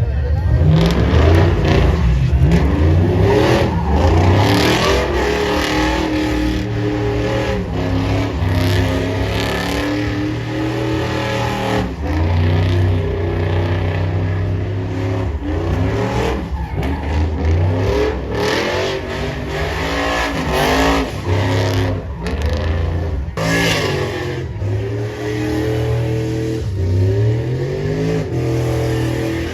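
Truck engines revving over and over, the pitch climbing and falling repeatedly, with one sharp rising rev a little past the middle.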